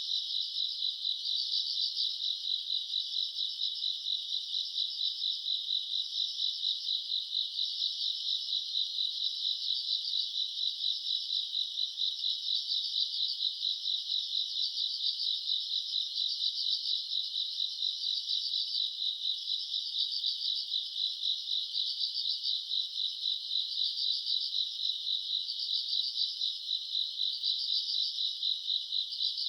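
A chorus of crickets and other grass insects chirping on a summer night: a dense, high-pitched pulsing trill at about three pulses a second, with a fainter, higher insect trill swelling and fading every couple of seconds.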